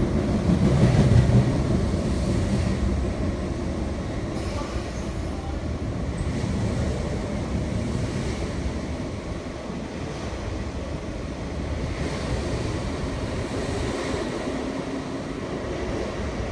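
MTR East Rail Line MLR electric multiple unit running through a station at high speed without stopping: a steady rumble of wheels on the rails, loudest about a second in as the front cars go by.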